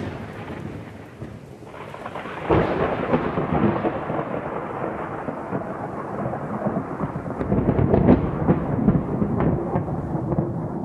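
A low, rolling rumble with scattered crackles, like a thunderstorm sound effect. It dips after the first second and swells sharply about two and a half seconds in.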